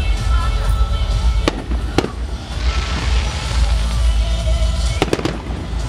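Aerial fireworks bursting: single sharp bangs about a second and a half and two seconds in, a quick run of three bangs near the end, and a spell of hiss in between.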